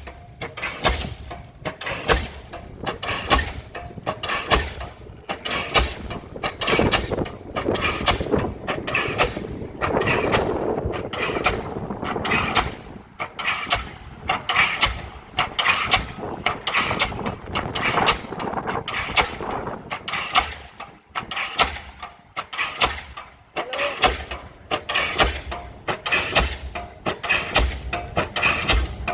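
Diesel pile hammer driving a pile. Each blow is a sharp bang, a little more than one a second, over the steady running of the rig's engine.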